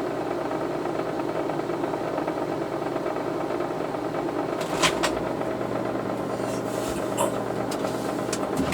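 A steady mechanical hum, with a few sharp clicks about five seconds in, near seven seconds, and just before the end.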